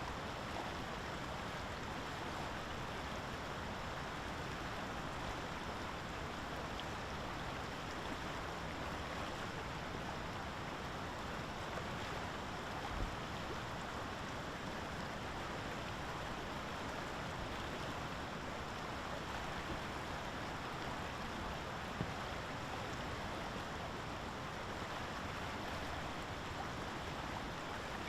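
Steady, even rushing noise of outdoor ambience, with a soft low thump about halfway through and a short click later on.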